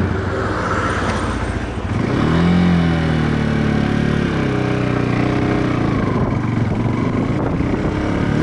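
Viper V250-C cruiser motorcycle engine running under way, its pitch rising and falling several times as the throttle and gears change. Wind rushes over the microphone throughout.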